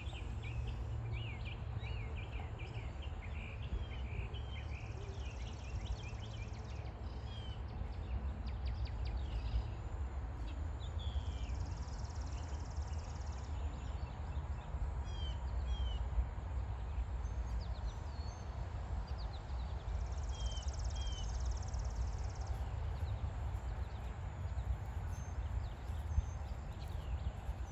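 Outdoor ambience: small birds chirping with quick, sliding calls over a steady low rumble, with a high buzzing that comes and goes four times.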